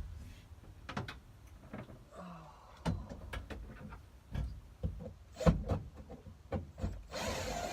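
Scattered light knocks and clicks of hand tools and trim parts being handled inside a car's interior, then a steady scraping rustle starting near the end.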